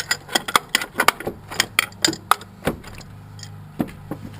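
An irregular run of light metallic clicks and clinks from parts and tools being handled while fitting something under the hood, quick at first and then thinning out, over a low steady hum.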